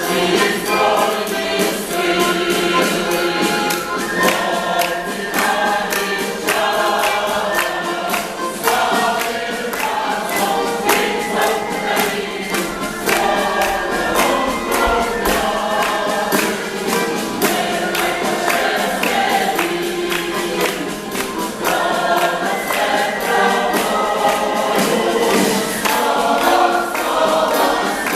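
Choir singing a Ukrainian song over an accompaniment with a steady beat.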